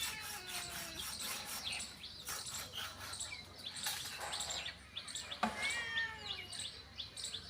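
Small birds chirping and twittering throughout. Twice, near the start and again about halfway through, there is a cat's drawn-out meow that falls in pitch.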